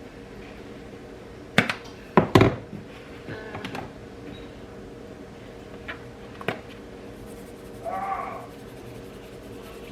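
A few sharp knocks and clatters, loudest as a quick pair a couple of seconds in, over a steady background hum, with a short pitched squeak-like sound near the end.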